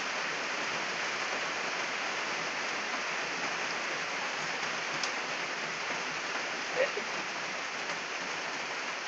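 Steady rain falling and splashing on the ground and surrounding surfaces, an even, unbroken hiss, with one short faint sound about seven seconds in.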